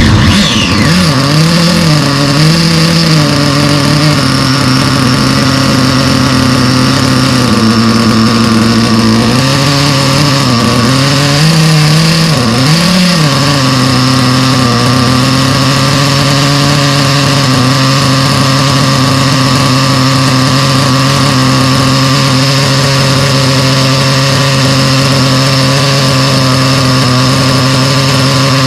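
Brand-new Novarossi Mephisto nitro engine in a Kyosho MP10 1/8-scale buggy idling just after its first start, at the beginning of its break-in on idle. Its speed hunts up and down for the first twelve or thirteen seconds, then settles into a steady idle.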